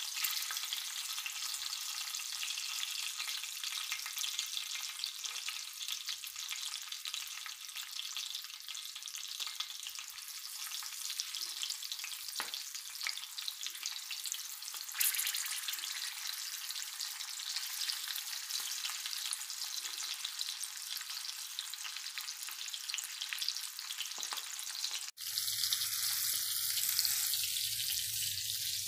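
Masala-stuffed green chilies sizzling and crackling steadily in hot oil on a tawa, with a spoon now and then moving them in the pan. Near the end the sound cuts out for an instant and resumes with a low hum under the sizzle.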